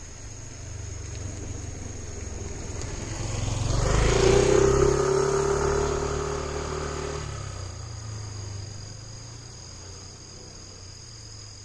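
A motor vehicle passes by: its engine grows louder to a peak about four to five seconds in, then fades away. A steady high insect trill runs underneath.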